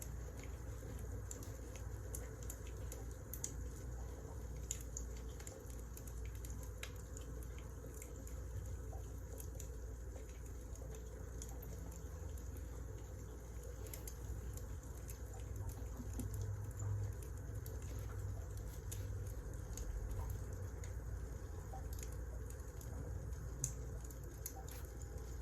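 Wood fire crackling: scattered sharp crackles over a low steady rumble.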